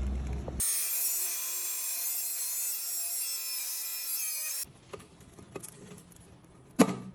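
A steady rasping, scraping sound for about four seconds that stops abruptly. Then quiet handling noise with a sharp knock near the end.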